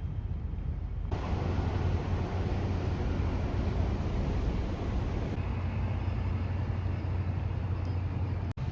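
Steady low drone of a large car ferry's engines under rushing wind and water noise on board. The rushing grows louder about a second in, eases a little about five seconds in, and drops out briefly near the end.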